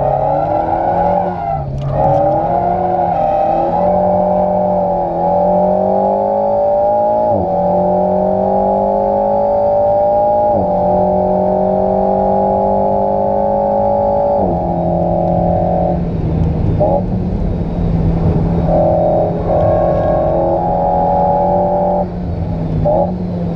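Alpine A110's turbocharged 1.8-litre four-cylinder engine at full throttle, heard from inside the cabin: the pitch climbs through the gears, drops sharply at quick upshifts of its dual-clutch gearbox about seven and ten seconds in, then holds at steady high revs in fifth gear.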